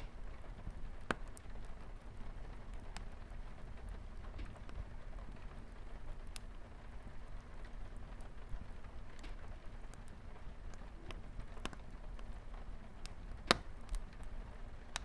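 Wood fire crackling with scattered small pops, two sharper louder pops about a second in and near the end, over a steady low rumble and the patter of light rain on a window.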